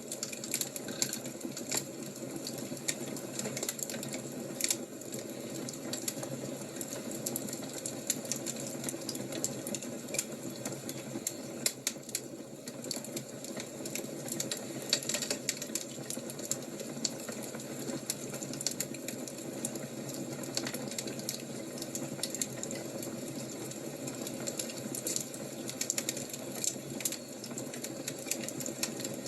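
Wood fire crackling: irregular sharp pops and snaps over a steady low rush of the burning fire.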